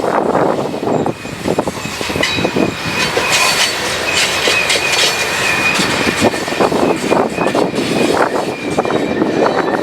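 Train rolling past with its wheels squealing, a thin high screech that sets in about two seconds in and holds until near the end. Heavy wind buffeting the camera's microphone.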